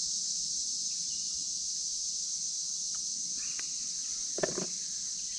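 Steady evening chorus of insects such as crickets, a continuous high-pitched trill. About four and a half seconds in there is one brief, louder sound.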